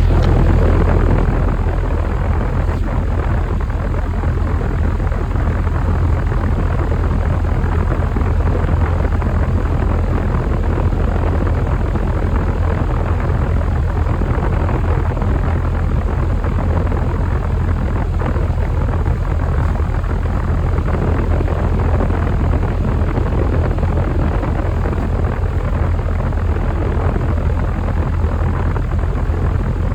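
Air-conditioning unit running close up: a loud, steady low hum under a rushing, fan-like noise, switching on abruptly just before and holding unchanged.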